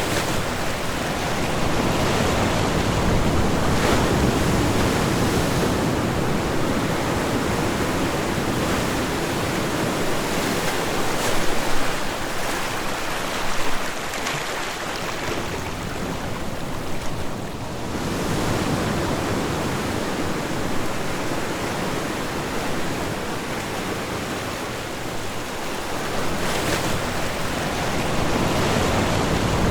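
Ocean waves breaking and washing on a shore in a continuous rushing noise that swells and ebbs every several seconds, with a couple of brief louder surges in the middle.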